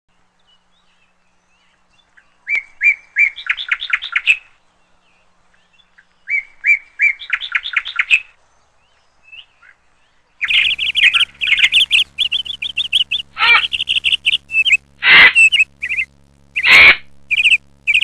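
Birds chirping: a short song phrase of quick repeated notes, heard twice with a pause between, then from about ten seconds in a dense run of chirps with two louder calls near the end, over a faint steady hum.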